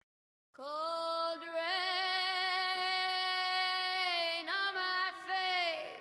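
AI-generated female voice singing wordlessly, alone with no instruments. After a brief silence it holds one long note with a slight vibrato, then sings a few shorter notes and fades out.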